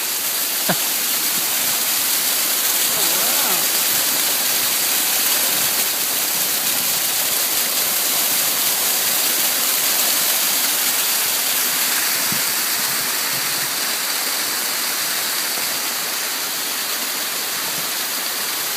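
Steady rush of running water, a loud even hiss with no letup. A single sharp click sounds less than a second in.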